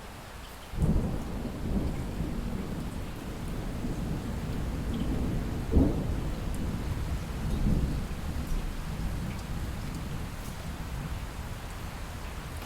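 Thunder rumbling over steady light rain: a low rumble breaks in suddenly about a second in, peaks with a sharper crack near the middle, swells once more and slowly dies away while the rain hiss continues.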